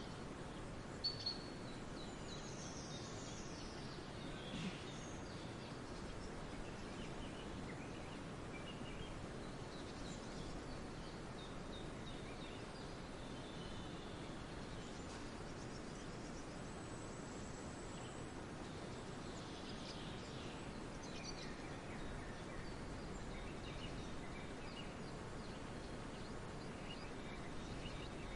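Forest ambience: a steady background hiss with faint, scattered birdsong, and two short, louder chirps about a second in.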